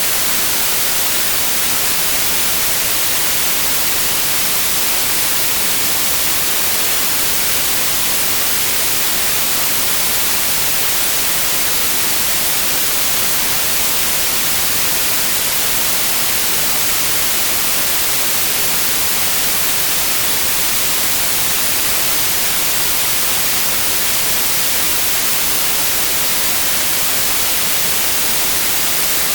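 Synthetic white noise: a steady, even hiss, brightest in the high end, that never changes.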